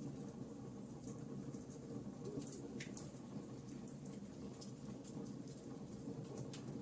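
Wood fire burning in a fireplace, crackling with irregular small pops and snaps over a steady low rumble.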